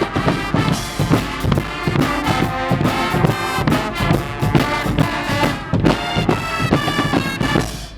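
Guggenmusik carnival band playing: loud brass over a steady drumbeat. The music stops at the very end.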